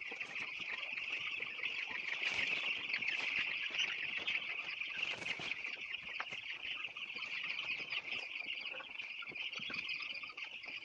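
Farmyard sound: a steady high chirring of insects with birds and poultry calling over it, and many short scraping and rustling noises as poultry droppings are gathered up.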